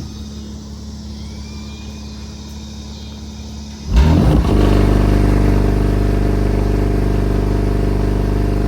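Car engine idling low, then about four seconds in it is suddenly revved up and held at steady raised revs.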